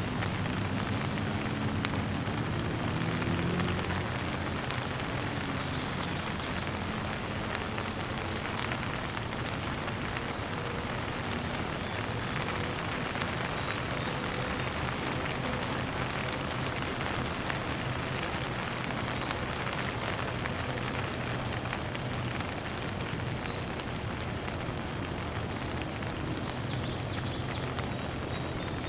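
Steady rain falling, a dense even patter of drops on surfaces, with a faint low drone underneath that is strongest in the first few seconds.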